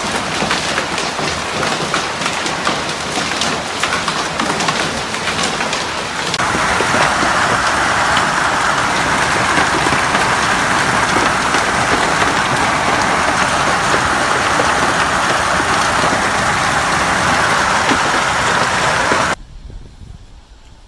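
Hail and heavy rain pelting down, a dense clatter of stones striking hard surfaces. About six seconds in, it switches abruptly to a louder, steadier downpour hiss. Near the end it drops suddenly to a much quieter background.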